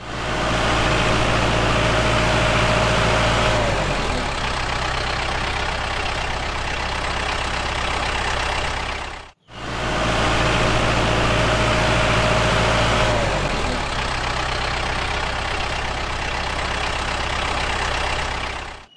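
An engine running steadily, its pitch stepping down about four seconds in as it settles to a lower speed. After a brief dropout in the middle, the same stretch plays again.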